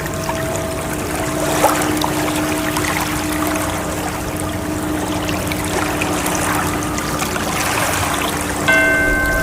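A steady rush of water with sustained, bell-like chime tones over it; a new chime is struck near the end.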